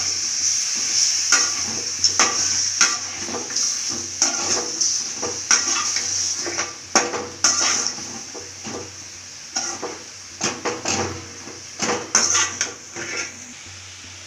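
Chicken in spicy gravy frying in a pan: a steady sizzle under repeated scrapes and knocks of a spoon stirring against the pan. The sizzle quietens about halfway through, and the stirring stops shortly before the end.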